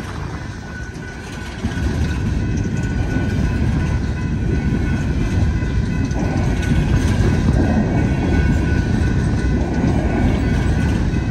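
Empty coal train's open-top coal gondolas rolling past at a grade crossing: a steady rumble of steel wheels on the rails with clickety-clack. It grows louder about a second and a half in and then holds.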